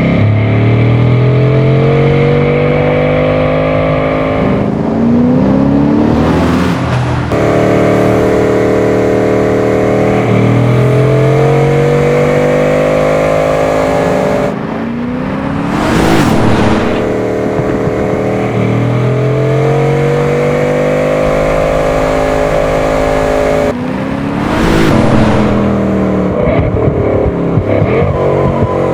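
Bugatti Chiron's W16 engine accelerating hard in race mode, its pitch climbing in each gear and dropping at each of several gear changes, with a couple of brief rushing whooshes as the car goes by.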